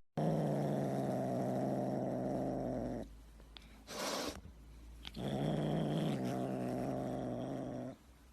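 A cat growling, a long low rumble held about three seconds, twice, with a short hiss between the two growls.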